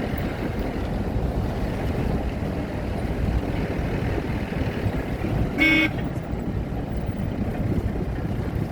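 A steady low rumble with one short horn toot about two-thirds of the way through.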